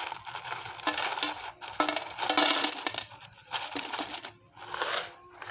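Tableware and a container lid being handled, clinking and clattering, with the loudest rattle about two seconds in.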